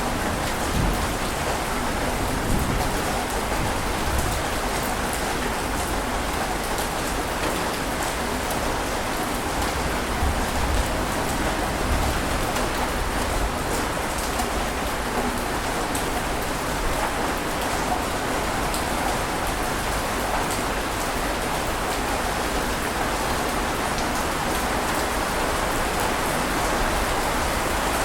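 A steady, even wash of water noise with fine scattered crackles, and no distinct wave surges rising and falling.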